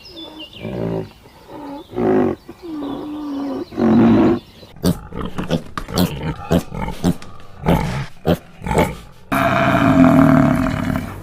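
A wild animal vocalizing: several low, bending calls, then a quick run of short grunts, then one loud, sustained roar-like call near the end.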